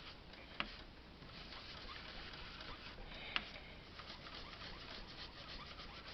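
Faint, rapid dabbing and swishing of a blending brush laying Distress Oxide ink onto card through a stencil, with two small sharp clicks, one near the start and one about halfway.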